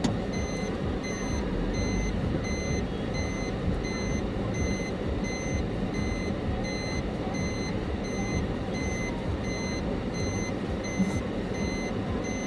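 Vehicle reversing warning beeper sounding a short, high, evenly repeated beep about twice a second, over a low engine and road rumble.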